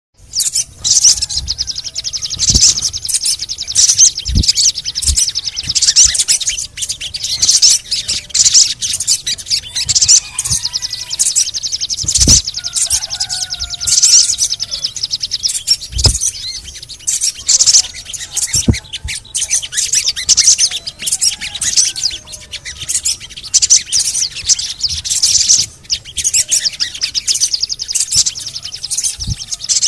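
Sogon (spiderhunter) song: a continuous, rapid, high chattering of quick 'cret-cret' notes and chirps, used as a lure recording to make caged sogon sing. A few short low thumps sound over it, about six times.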